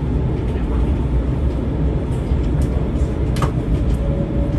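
Cabin noise inside an E4 series 'Max' double-decker Shinkansen pulling out of a station: a steady low rumble with a few light clicks, and a faint tone that starts rising near the end as the train gathers speed.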